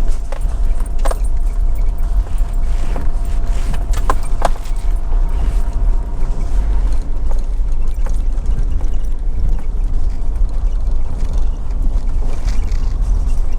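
A vehicle driving slowly along a dirt campground track, a steady low rumble with a few sharp knocks and rattles about one and four seconds in.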